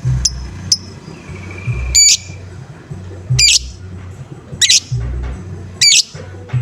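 Lovebird giving a series of short, harsh calls, repeating about every second and a quarter, over a low beat of background music.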